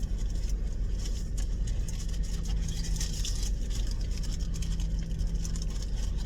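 Car engine idling, heard as a steady low hum inside the cabin, with light rustling and clicks scattered over it.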